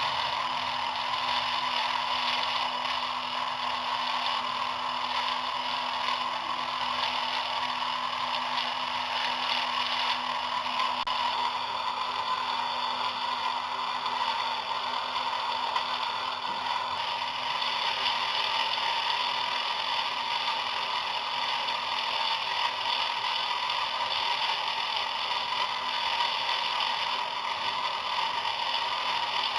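Small electric motor running steadily, driving the gear train of a home-made miniature tractor and mill model with a fine, even gear clatter.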